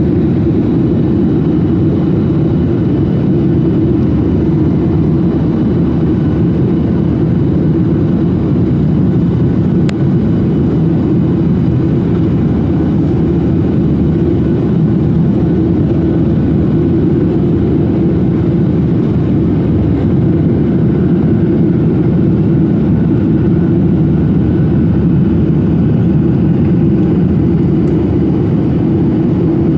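Jet airliner cabin noise: the engines and rushing air make a steady, loud, low noise that does not change, typical of the climb after takeoff.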